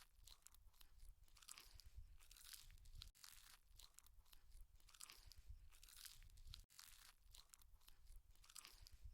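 Faint crunchy chewing of salad, a steady run of small crackling crunches, broken by brief drop-outs in the sound about every three and a half seconds.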